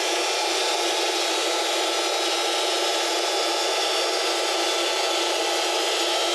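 Wood-Mizer band sawmill blade cutting through a black locust log, a steady sawing noise that holds even throughout.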